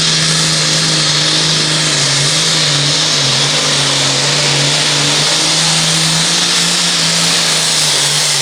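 A pulling tractor's turbocharged diesel engine running loud and flat out at a steady pitch while it drags the weight-transfer sled down the track under full load.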